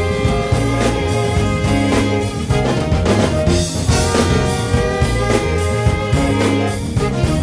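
Live soul band playing, with drum kit and bass keeping a steady beat under sustained instrument lines.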